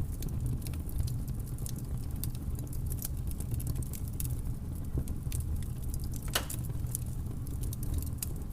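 Campfire crackling: irregular sharp snaps and pops from burning wood over a steady low rumble of the fire, with one louder pop about six seconds in.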